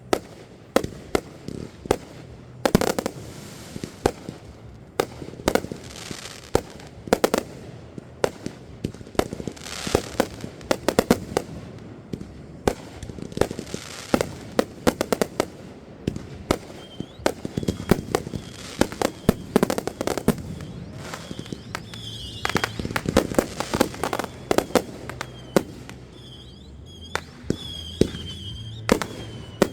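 Fireworks going off: a rapid, uneven series of bangs and crackling pops in clusters, with a high thin tone coming and going in the second half.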